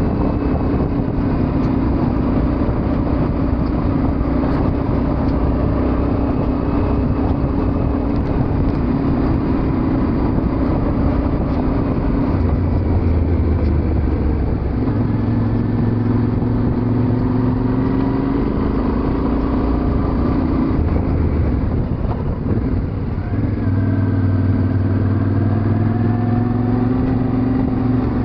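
Yamaha Ténéré 700's parallel-twin engine running under way, its pitch stepping up and down several times with throttle and gear changes, over a steady rushing noise.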